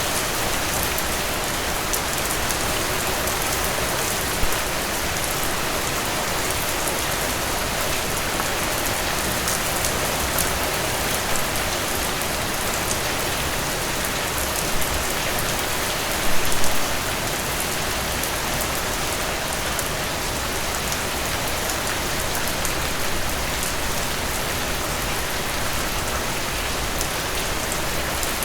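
Steady rain falling on a surface, a dense hiss with individual drops ticking through it. A short louder patch of heavier drops comes a little past halfway.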